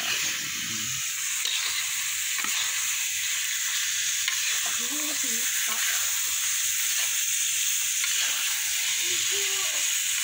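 Tofu and mujair fish frying in Balinese spice paste in a wok, a steady sizzle, with a spatula stirring and scraping the pan now and then.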